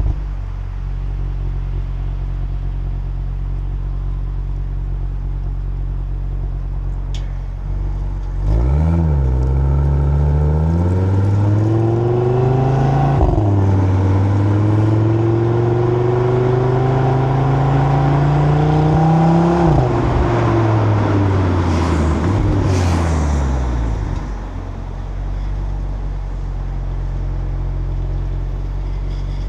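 Exhaust of a stock Audi RS3's turbocharged five-cylinder engine, recorded at the rear of the car on the motorway. It cruises steadily, then about eight seconds in it drops a gear and accelerates with a rising note, with a quick upshift about thirteen seconds in. The note keeps rising until about twenty seconds in, then falls as the driver lifts off and settles back to a steady cruise.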